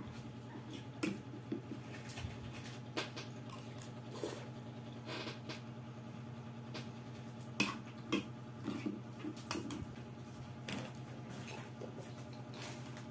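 Quiet eating sounds: scattered soft clicks of a spoon and fork against a bowl of lomi noodle soup, with chewing, over a steady low hum.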